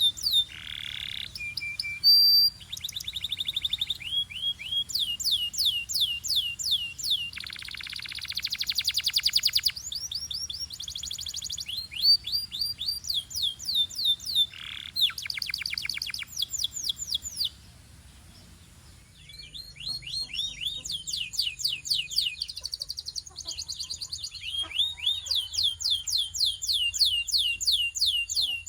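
A Belgian canary singing in long phrases, each made of one quick note repeated many times in a fast, even run. The bird switches from one note type to the next, with a short pause about two-thirds of the way through before it starts again.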